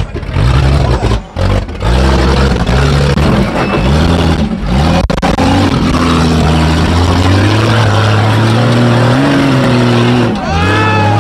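Off-road 4x4 rig's engine revving up and down in quick repeated blips, then held at high revs for a few seconds before dropping off near the end.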